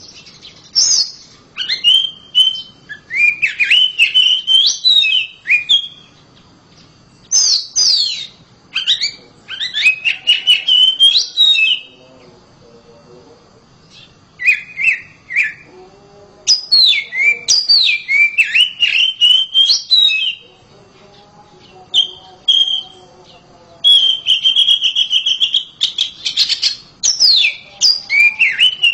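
Oriental magpie-robin singing loudly: several-second bursts of fast, varied whistled phrases with quick sweeps up and down, separated by short pauses. Late on, one note is held steady for about two seconds.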